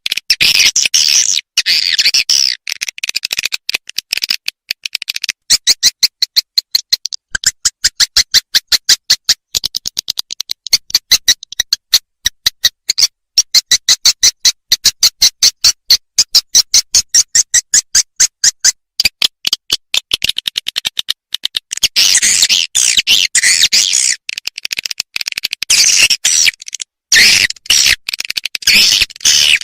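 Swiftlet lure call recording: rapid, evenly spaced high chirps in long trains, with bouts of dense twittering chatter at the start and again near the end.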